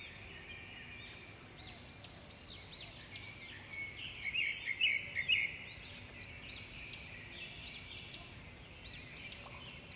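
Several small birds chirping, many short overlapping chirps, with a busier, louder flurry around the middle.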